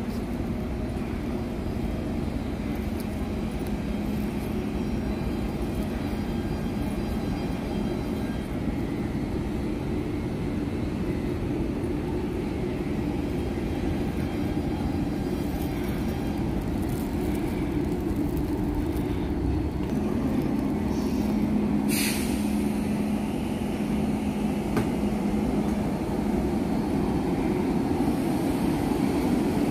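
Electric train running on rails: a steady rumble with a low hum that fades out mid-way and returns, growing slightly louder toward the end. A brief sharp noise cuts through about 22 seconds in.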